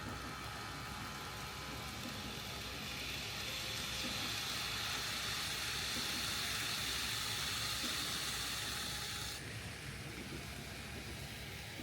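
N-scale model train running on layout track: a steady rushing hiss that brightens for a few seconds, then drops back suddenly a couple of seconds before the end.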